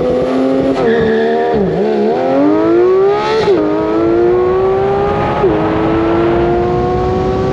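Porsche 992 GT3's 4.0-litre naturally aspirated flat-six accelerating hard, its pitch climbing with the revs and falling sharply at quick upshifts about three and a half and five and a half seconds in.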